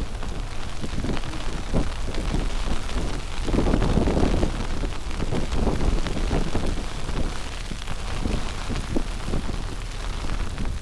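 Wind rumbling and buffeting on the microphone in a snowstorm, with irregular crackling and crunching. A louder gust swells about three and a half seconds in.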